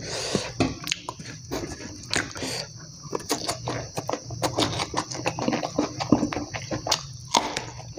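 Close-miked eating sounds of a person chewing a mouthful of rice and side dishes eaten by hand: many short, irregular wet smacks and clicks of the mouth.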